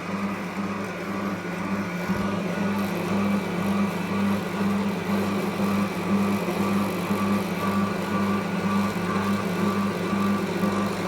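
Cleanroom vacuum cleaner running steadily, its motor giving a strong low hum.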